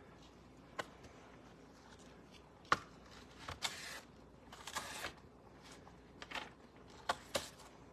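Kitchen knife cutting the tough center rib out of cabbage leaves: scattered sharp clicks and a few short crisp rustles as the leaves are cut and handled.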